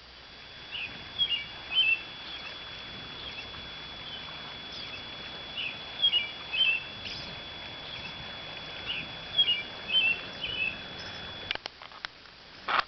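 A bird singing short phrases of quick chirps, repeated three times about every four seconds, over a steady high-pitched tone. A few sharp clicks near the end.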